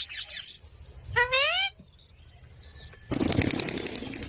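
Pet ringneck parrot calling: a few short high chirps at the start, then a single rising squawk about a second in. From about three seconds in comes a second of noisy rustling.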